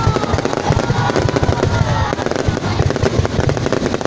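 A dense, continuous barrage of fireworks: rapid overlapping bangs and crackles with no pause, and a few faint gliding whistles in the first two seconds.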